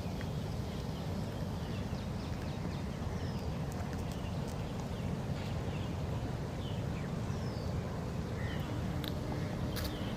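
Small birds chirping now and then, short high chirps that slide up or down, over a steady low rumble.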